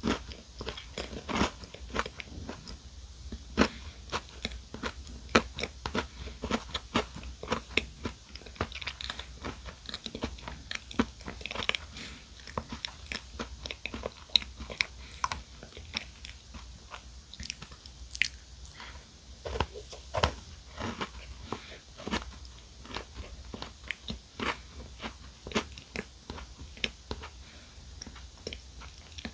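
Close-miked chewing and biting of a chocolate-coated mini chocolate cupcake: a steady run of many small, sharp clicks and crackles of uneven loudness as the chocolate shell and cake are chewed.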